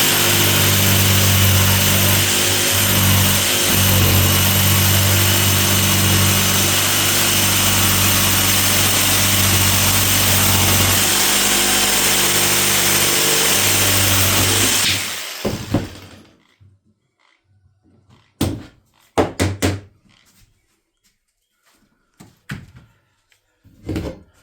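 Electric power saw running and cutting through wood, set deep enough to cut two pieces of trim at once. It runs steadily for about fifteen seconds, then is switched off and winds down, followed by a few short knocks.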